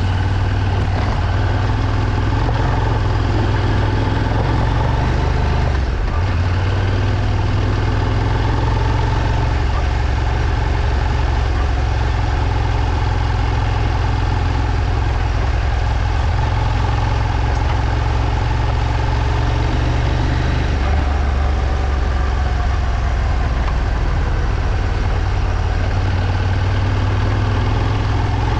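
Moto Morini X-Cape 650's parallel-twin engine running steadily, its note shifting to a new pitch about six seconds in and again about twenty-one seconds in.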